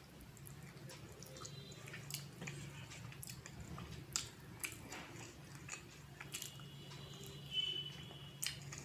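Close-miked eating sounds of a rice-and-curry meal: chewing with scattered wet mouth clicks and smacks, over a low steady hum.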